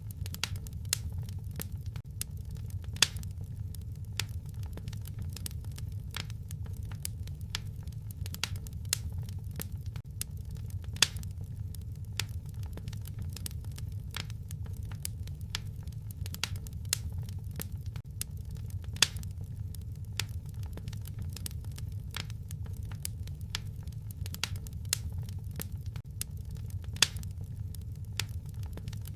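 Wood fire crackling: many small snaps and clicks over a steady low rumble, with a sharper louder pop about every eight seconds.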